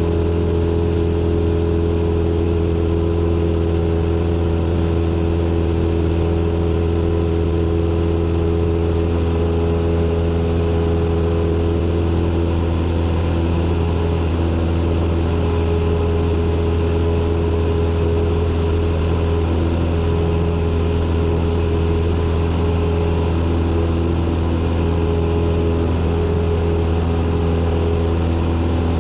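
Cessna 172N's four-cylinder Lycoming engine and propeller droning at a steady, unchanging pitch in flight, heard from inside the cockpit.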